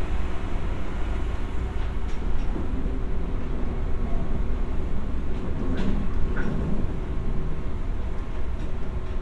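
JR West 201 series electric commuter train running along the line, a steady rumble of wheels and motors heard from inside the carriage, with a few faint clicks.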